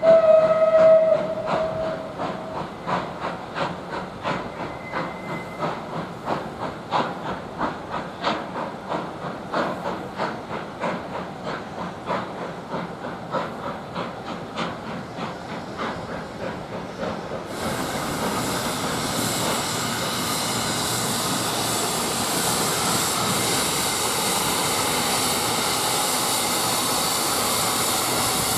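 A steam locomotive gives a short whistle, then its exhaust beats at a steady rhythm of about two a second. About two-thirds of the way in, a loud, steady hiss of steam starts and carries on to the end.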